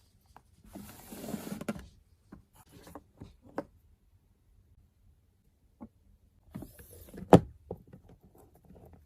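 Hands working with washi tape and packing materials: two short rustles about a second long, the second ending in a sharp click, with light taps and handling noises between.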